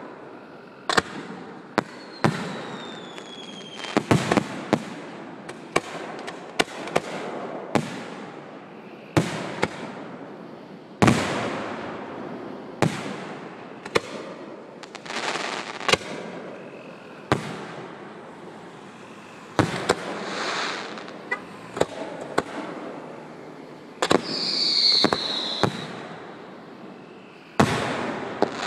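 Aerial fireworks shells bursting in a steady run of sharp bangs, roughly one a second, some trailing off into a crackling hiss. Twice a whistling firework sounds, falling in pitch: once near the start and once about 24 seconds in.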